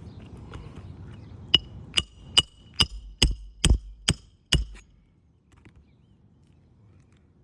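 Hammer driving roofing nails into a new asphalt shingle: eight strikes in about three seconds, each with a short metallic ring, starting about a second and a half in.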